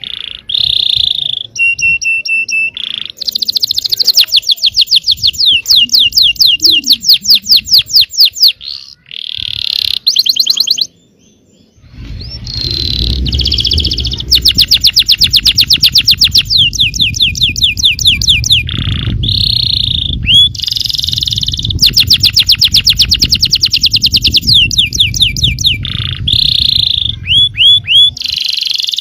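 Yellow domestic canary singing a long, loud song of fast rolling trills and whistled notes, with a brief pause about eleven seconds in.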